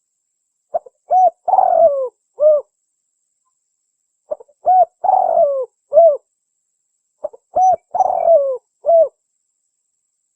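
Spotted dove (tekukur) cooing, a recorded lure call: three matching phrases about three seconds apart. Each phrase is a couple of short coos, then a longer coo that falls in pitch, then one last short coo.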